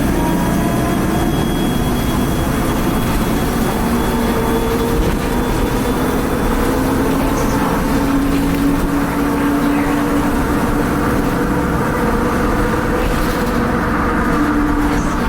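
2010 Nova Bus LFS Articulated under way, its Cummins ISL diesel and turbo running with a steady drone. A thin high whine fades out about five seconds in, and the lower engine tones climb slowly in pitch over the next few seconds, then hold.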